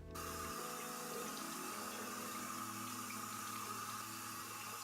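Water running steadily from a tap into a sink as a face mask is washed off. It starts suddenly.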